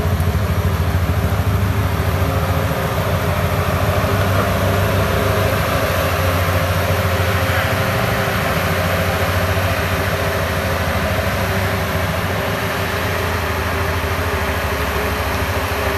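Turbocharged LS V8 in a 1971 Chevrolet C30 truck running steadily on the highway, with the roar of its old tires on the road.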